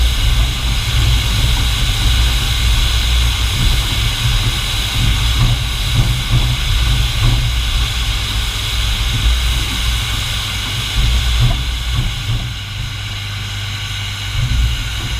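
Reading & Northern 425's steam-hauled train running, a steady low rumble with a high hiss over it.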